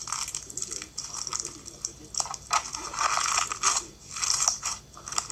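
Fishbowl slime, clear slime packed with small plastic fishbowl beads, being squeezed and pressed by hand, giving crunchy crackling and popping in repeated bursts about once a second.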